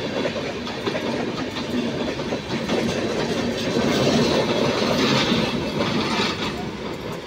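Passenger train coaches running past at speed, wheels clattering steadily on the track; the sound begins to fade near the end as the last coaches go by.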